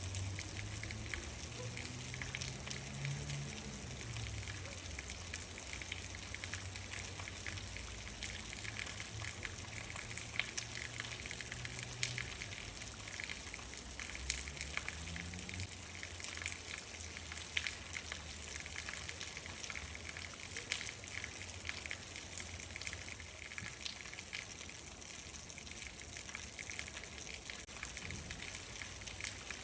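Steady rain falling, a dense patter of individual drops hitting a surface. A low rumble underneath fades out about halfway through.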